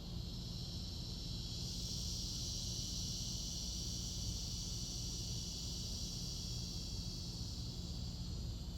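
Steady, high-pitched insect buzzing from the surrounding yard, even and unbroken, over a constant low outdoor rumble.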